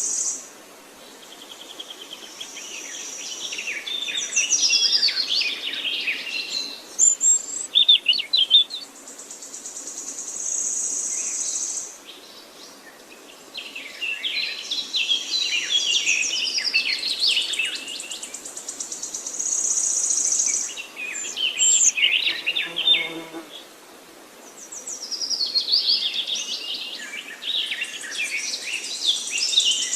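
Songbirds singing in woodland: phrases of quick, varied warbling notes a few seconds long, with short pauses between them. High, rapid trills come in between the phrases.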